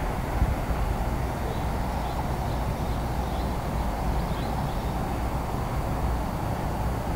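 Steady low rumble of a distant 500 series Shinkansen approaching, with a few faint bird chirps partway through.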